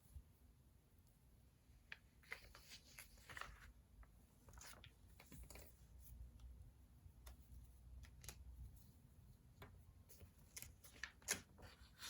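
Faint scratching of a pen writing on paper, with small clicks and paper rustles from desk work, coming in short spurts.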